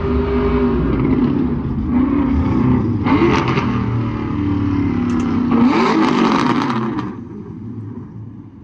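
Car engine revving repeatedly, its pitch rising and falling, with two louder bursts about three and five and a half seconds in. The sound dies down near the end.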